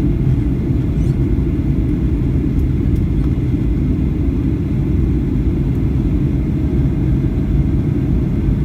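Steady low rumble of engine and airflow noise inside the cabin of a Boeing 737-800 airliner in flight, heard from a window seat.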